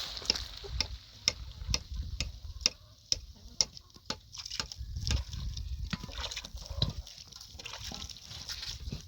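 Water dripping and splashing in small irregular drops, a few sharp ticks a second.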